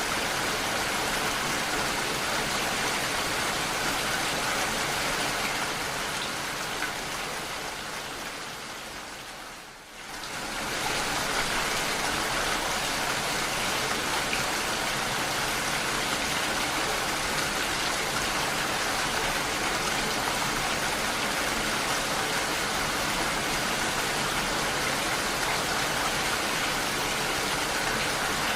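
Steady rain falling, an even hiss of drops. About ten seconds in it fades down and quickly comes back up to the same level, like a loop restarting.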